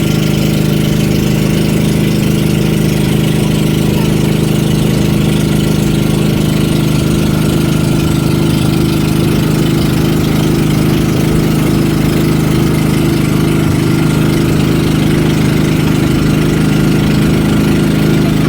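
Vehicle engine running at a steady, even speed, a constant low drone with no revving.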